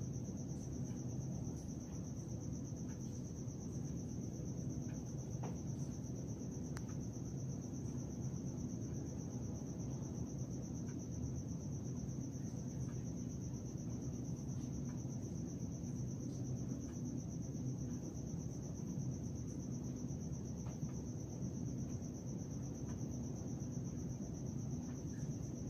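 Crickets trilling steadily at one high pitch over a constant low hum, with a few faint ticks.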